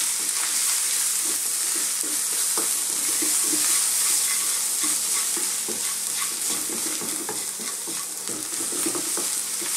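Onions and spice powders sizzling in hot oil in a wok, with a wooden spoon stirring and scraping against the pan in many small irregular strokes over a steady hiss.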